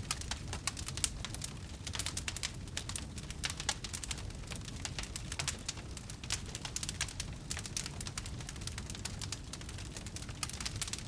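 Wood fire crackling in a fireplace: many irregular pops and snaps over a steady low rumble of the flames.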